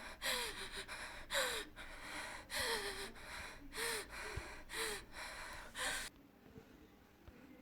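A woman gasping for breath, about once a second. Each breath carries a short whimpering voice that falls in pitch. The gasping stops abruptly about six seconds in.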